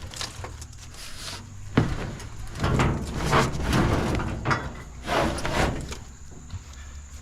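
Scrap metal pieces knocking and scraping against each other and the truck bed as they are shifted into place, a run of irregular clunks and scrapes.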